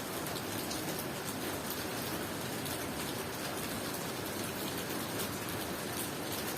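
Steady rain falling on surfaces, an even hiss with individual drops pattering through it.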